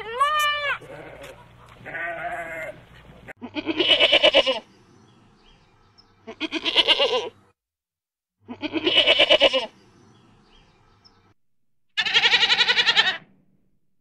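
Goats bleating: two shorter calls, then four loud, wavering bleats of about a second each, spaced two to three seconds apart.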